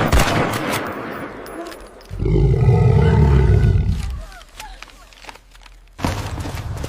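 A big cat's roar, one loud, low call of about two seconds starting a couple of seconds in. A steady low hum begins near the end.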